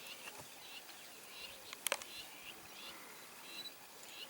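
Small birds chirping repeatedly in short high calls, with two sharp clicks just before two seconds in.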